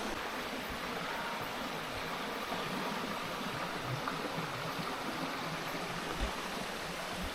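Steady rushing of a flowing mountain stream, with a few faint small knocks over it.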